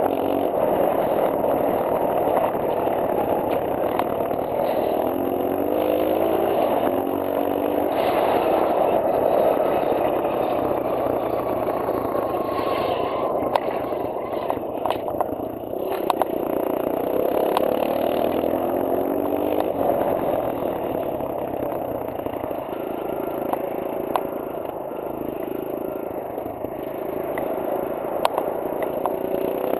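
Kawasaki KLX140L's small single-cylinder four-stroke engine running under way, its pitch climbing and dropping several times as it revs through the gears, with a few sharp clicks.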